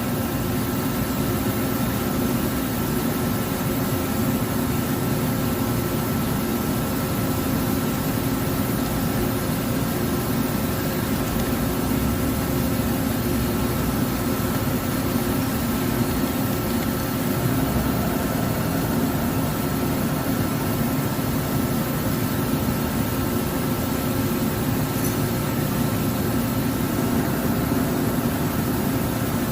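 CNC lathe running steadily: an even machine hum with a faint high whine held throughout.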